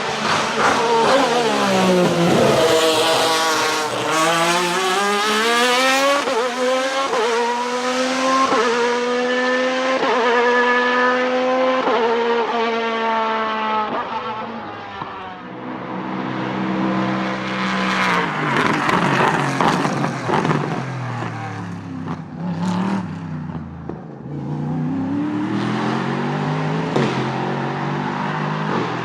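Car engine accelerating hard. Its pitch climbs and drops back several times as it shifts up through the gears, with more rises and falls in the second half.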